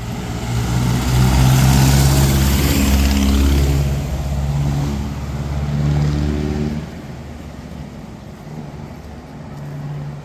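A motor vehicle drives past close by, its engine note changing pitch in steps, with a hiss of tyres that is loudest about two seconds in. It fades after about seven seconds, leaving a quieter engine hum that swells briefly near the end.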